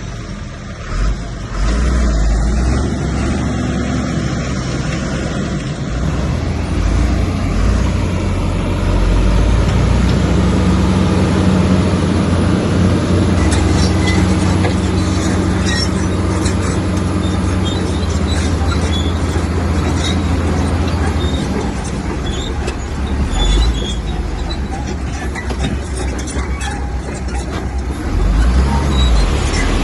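Komatsu bulldozer's diesel engine running steadily under load, with many sharp metallic clanks and clicks through the second half.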